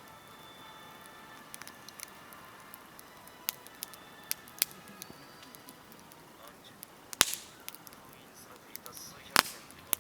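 Wood campfire crackling, with scattered sharp pops over a low hiss; two loud snaps stand out, about seven and nine and a half seconds in.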